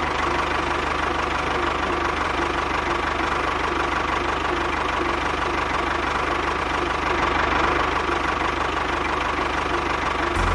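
Engine running steadily with a fast, even knocking pulse, like a tractor diesel at idle.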